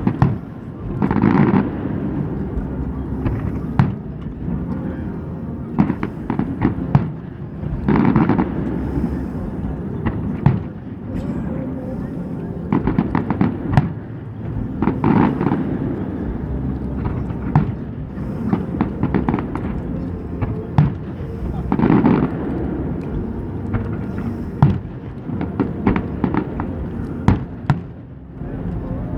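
Fireworks display: shells bursting in many sharp bangs at irregular intervals, with a few denser, louder clusters of bursts about every seven seconds.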